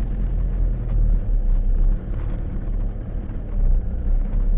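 Four-wheel-drive vehicle's engine running steadily at low speed with a low rumble as it drives slowly along a sandy dry riverbed.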